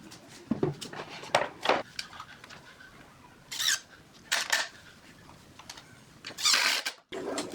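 Scattered knocks and clatter of hard objects being handled, some seven separate strikes, then a short rasping scrape a little before the end that stops abruptly.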